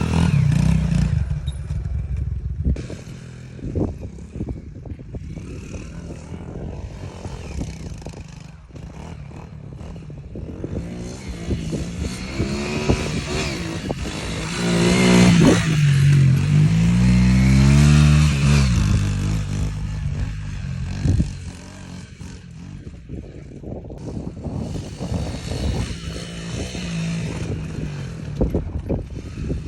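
Motorbike engine running while riding a rough track, louder through the middle with the engine pitch dipping and rising as the throttle changes. Frequent rattles and knocks come from the bike over the uneven ground.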